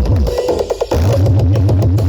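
Loud electronic dance music through a huge carnival "sound horeg" speaker rig, with heavy bass and a drum-kit beat. Just under a second in, a short drum fill plays while the bass drops out, then the bass and beat come back in.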